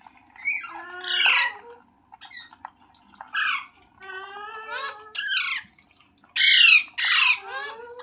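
Ringneck parrot (rose-ringed parakeet) squawking: a string of about eight short calls, several falling in pitch, the loudest pair a little over six seconds in.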